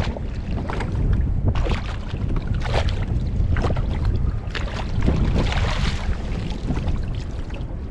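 Wind buffeting the microphone with a low rumble, and water splashing against a kayak about once a second.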